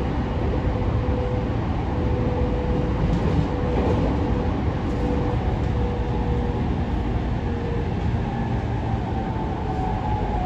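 Inside the passenger cabin of an E231-500 series commuter train while it is running: a steady low rumble of wheels on rail, with a thin, steady whine.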